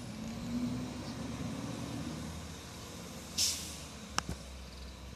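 Garbage truck engine running with a low rumble, with a short burst of air-brake hiss about three and a half seconds in and a sharp click just after.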